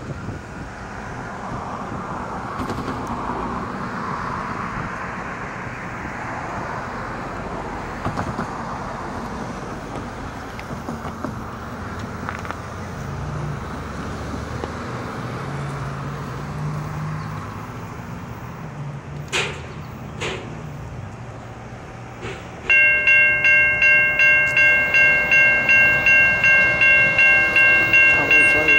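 Approaching freight train led by GE ES44AC diesel locomotives: a low engine rumble and rushing noise growing as it nears, with two sharp clicks. Near the end a much louder ringing warning signal starts, pulsing about two to three times a second.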